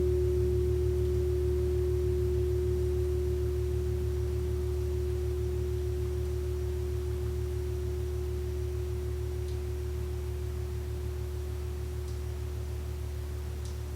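Gong ringing out after a strike: one steady, pure note over a low, wavering hum, slowly dying away.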